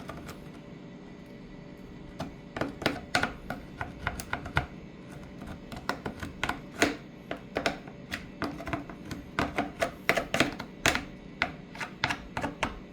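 Seat upholstery being scrubbed in cleaning, giving irregular sharp crackling clicks that begin about two seconds in, over a steady low hum.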